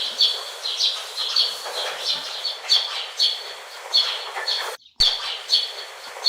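A bird chirping over and over in an even rhythm, about two short high chirps a second, with a brief break about five seconds in.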